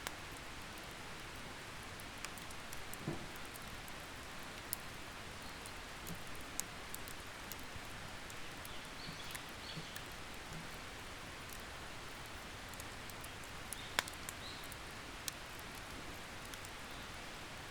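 Wood campfire crackling: a steady hiss with scattered sharp pops and snaps, the loudest about 14 seconds in.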